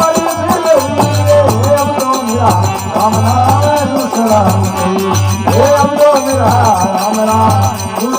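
Instrumental interlude of a Rajasthani folk bhajan: a melody line with gliding, ornamented notes over a steady drum rhythm and regular strokes of majira hand cymbals.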